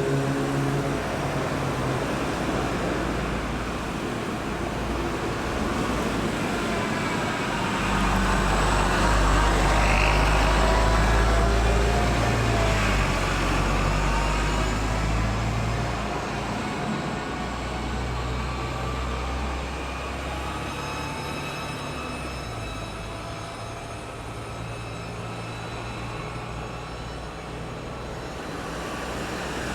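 Road traffic going round a roundabout: a steady low rumble of vehicle engines and tyres, with passing vehicles whose engine tones rise and fall. The loudest pass is about ten seconds in, and a higher engine whine comes near the end.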